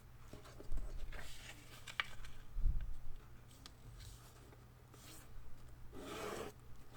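Sheet of letter-size paper rustling and rubbing as it is folded and the crease is pressed down, in several short spells with a small click about two seconds in.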